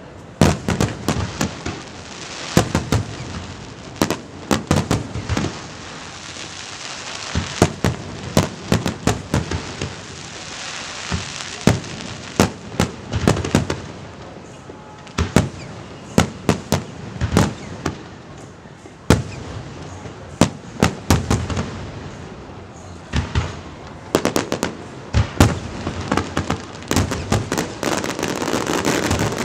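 Aerial fireworks display: shells bursting in quick, irregular succession, dozens of sharp bangs each with a ringing echo, with crackling between them. Near the end the crackling thickens into a dense, continuous crackle.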